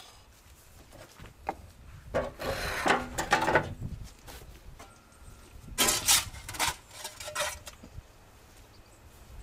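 Wooden bread peel scraping and sliding across the hearth of a wood-fired masonry oven in two bouts, as loaves are moved back in to bake longer.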